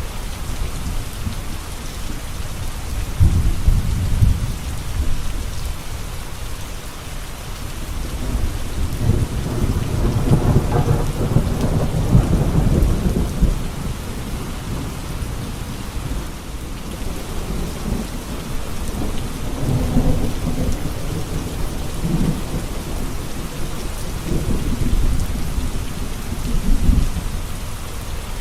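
Steady rain falling, with low rolling thunder rumbling several times, the longest roll building and fading through the middle.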